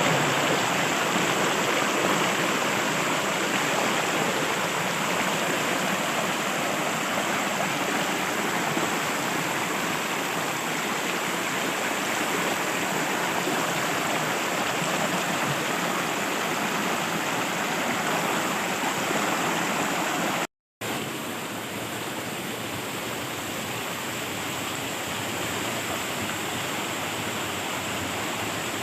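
Steady rushing of flowing water, like a stream or small waterfall, with no change in character; the sound cuts out for a moment about two-thirds of the way through and comes back slightly quieter.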